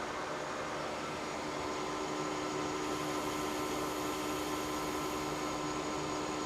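Metal lathe running steadily during a boring cut in an Inconel part: an even mechanical hum with several steady tones, and a faint added hiss in the middle.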